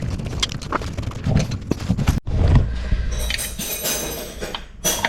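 Scattered knocks and clicks of parts and tools being handled, irregular, with a brief dropout about two seconds in.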